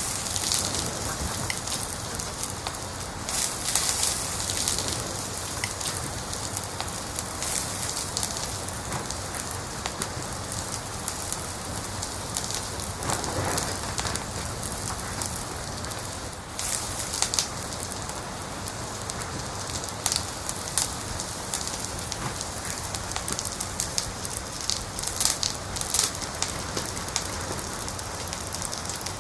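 Wood fire crackling in a fireplace: a steady hiss with frequent sharp pops and snaps scattered irregularly.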